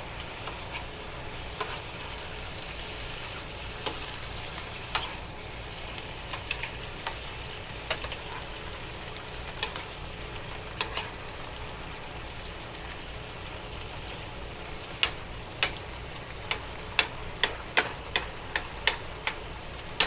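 Stir-fry vegetables sizzling steadily in a pan on medium-high heat as their water cooks off. Sharp clicks come now and then, more often in the last few seconds.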